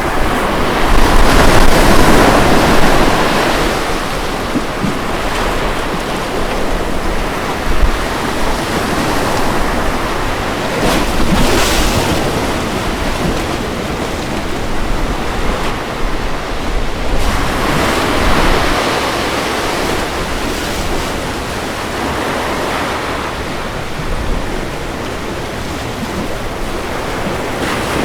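Ocean waves breaking on a beach: a continuous wash of surf that swells and eases, with the loudest break about two seconds in.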